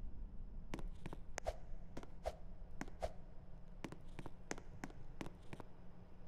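Ceiling fan running with a low hum and a sharp click or knock repeating about two to three times a second.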